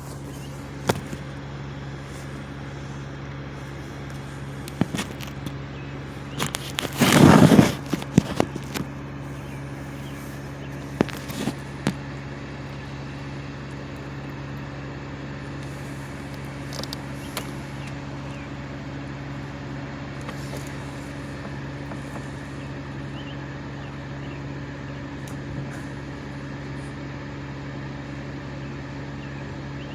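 An engine running steadily at high idle, a constant hum. A few knocks and clicks break in, with a loud noisy burst about seven seconds in.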